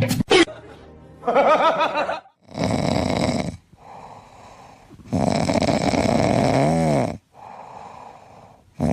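An animal, most likely a pet, snoring loudly in long, noisy breaths that come every two to three seconds.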